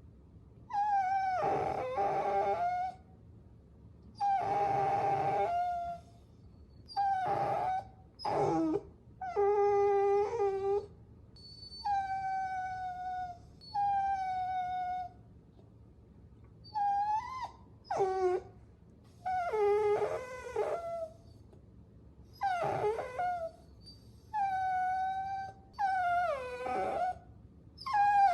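Puppy whining: a string of about a dozen high-pitched whimpers, each a second or two long with short pauses between. Some waver in pitch and some slide slightly downward.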